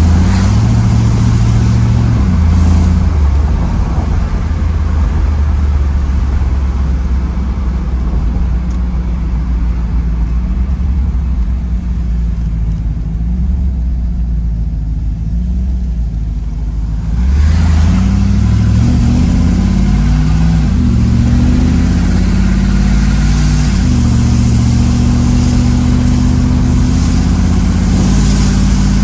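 A 1992 Chevrolet Camaro Z28's V8 engine and road noise, heard from inside the cabin while driving. The engine eases off for a few seconds past the middle, then pulls hard again and rises in pitch in steps as the car accelerates.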